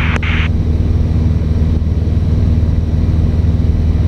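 A Cessna 150's Continental O-200 engine and propeller drone steadily in cruise, heard from inside the cabin. A short burst of radio hiss and a click come right at the start.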